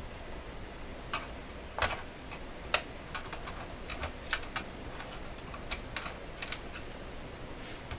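Irregular small clicks and taps of hands and a screwdriver working on a transistor radio's circuit board, about a dozen at uneven spacing over a faint steady low hum.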